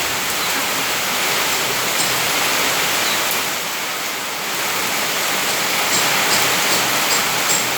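Heavy rain falling steadily in strong wind, a dense even hiss that eases slightly for a moment in the middle.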